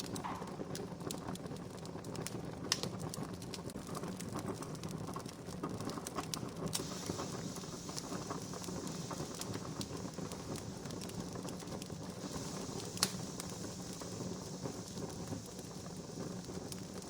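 Wood fire crackling steadily, with many small snaps over a hissing bed and two sharp, louder pops, about three seconds in and about thirteen seconds in.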